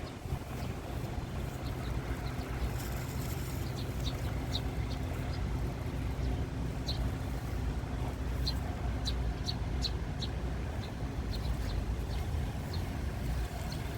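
Strong wind buffeting the microphone as a steady low rumble, with many short high chirps scattered through it, most of them in a cluster about two-thirds of the way in.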